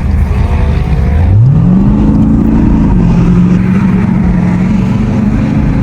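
Car engine accelerating: its pitch climbs steadily about a second and a half in, holds, then steps down a little and runs on at a steady speed.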